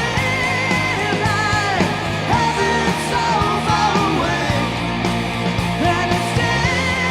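Rock band playing live: distorted electric guitars over a steady bass, with singing.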